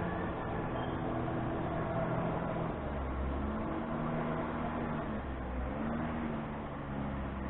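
Heavy farm machine engine running steadily, its pitch rising and falling twice as the revs change.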